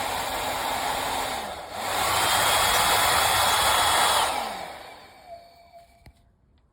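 1400 W brushless-motor hair dryer blowing with a steady rush of air. About a second and a half in it drops away briefly, then comes back louder. A little after four seconds it is switched off, the motor whine falling as it spins down, and a faint click follows.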